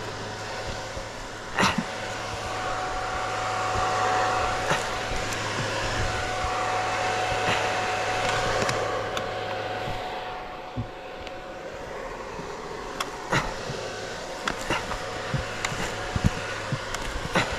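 A small engine running steadily at a fairly even speed, with scattered sharp knocks and clicks throughout.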